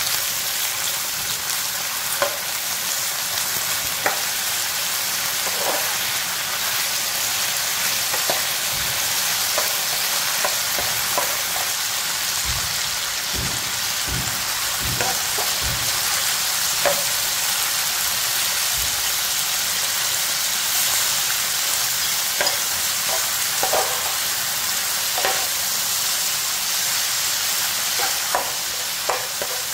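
Pork belly pieces and garlic sizzling in hot oil in a nonstick frying pan, while a slotted metal spatula stirs them with intermittent scrapes and clicks against the pan. A few dull knocks sound near the middle.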